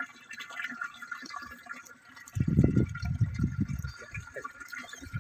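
Water splashing and gurgling in loud bursts starting a little past two seconds in, as when water is poured into a bird bath or birds bathe in it.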